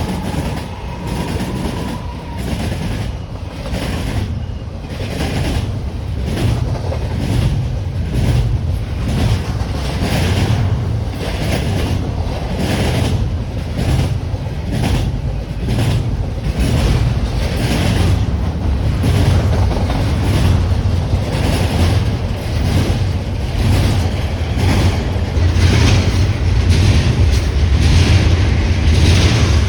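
Passing train: a steady low rumble with the rhythmic clickety-clack of wheels over rail joints, growing louder toward the end. A horn note fades out in the first two seconds.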